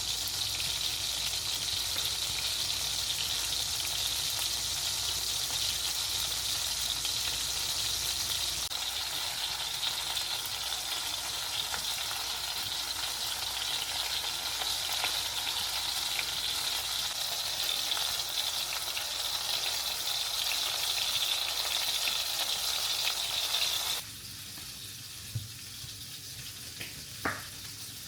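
Food frying in a pan, a steady sizzling crackle that cuts off abruptly about 24 seconds in. After that it is quieter, with a single knock and a brief pitched squeak near the end.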